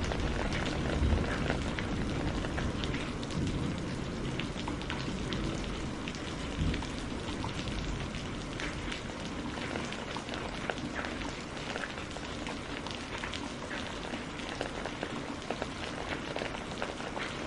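Steady rainfall with many individual drops ticking on a surface. There are two brief low bumps, about a second in and again near seven seconds in.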